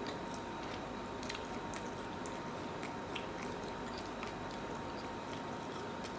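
A person chewing and biting food close to the microphone, with small, irregular mouth clicks over a steady background hiss.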